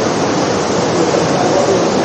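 Steady rush of artificial rain pouring down onto the floor of an indoor rain installation, loud and even throughout.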